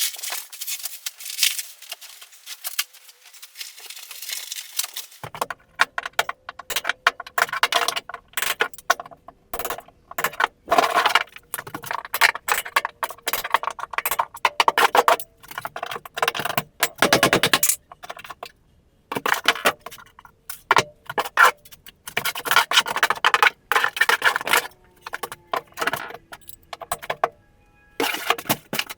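Bathroom demolition: a dense, irregular run of scrapes, cracks and clatters as the old tub surround and floor are pried and torn out.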